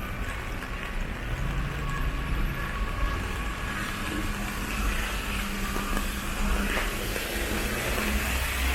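City street traffic: vehicle engines running with a steady low rumble, and a hiss of passing traffic growing louder in the second half.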